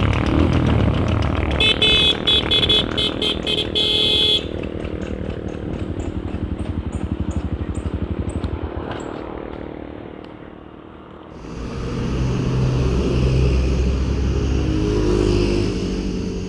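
Honda CRF150L single-cylinder engine running while a loose rear brake-disc bolt strikes and scrapes the caliper housing once per wheel turn. The bolt first gives a rapid metallic ringing, then ticks that come further apart as the bike slows almost to a stop, before steady riding noise picks up again.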